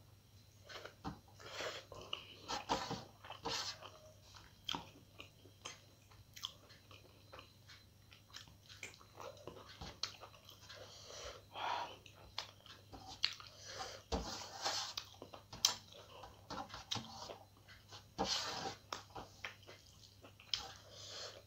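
A person chewing mouthfuls of rice and chicken curry eaten by hand, with irregular wet smacking mouth sounds close to the microphone. A faint steady low hum runs underneath.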